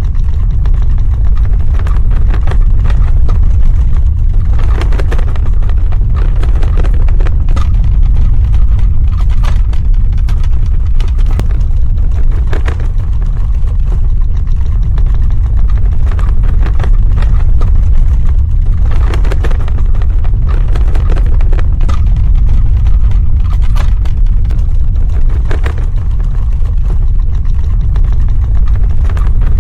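Earthquake sound effect: a loud, continuous deep rumble, with short crackles and rattles coming and going over it every few seconds.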